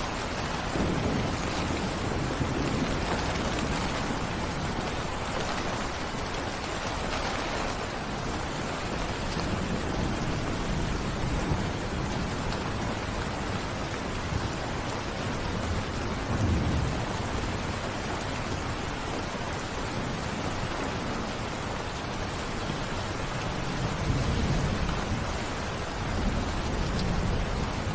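Heavy rain falling steadily, with low rolls of thunder swelling up a few times.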